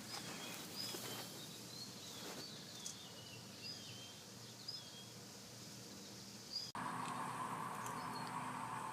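Faint birds chirping in short, scattered calls over quiet outdoor background. About two-thirds of the way in, the sound cuts abruptly to a steady hum.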